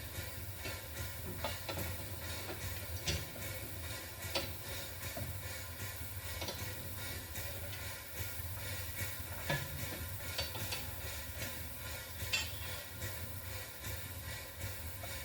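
Standing steam locomotive with a steady low rumble and hiss, broken by scattered metallic knocks and scrapes every second or two as the ash pan is raked out.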